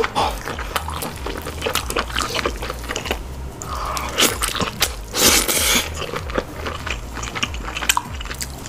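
Close-miked eating sounds: a person biting and chewing seafood in sauce, with many small clicks and a louder crunchy stretch a little past the middle.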